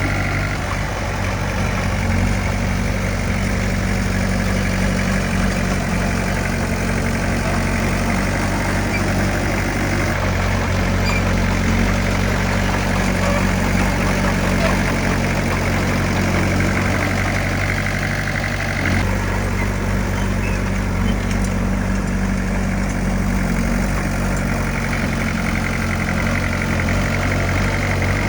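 Diesel engine of heavy earthmoving equipment running steadily, with a brief change in its low note about two-thirds of the way through.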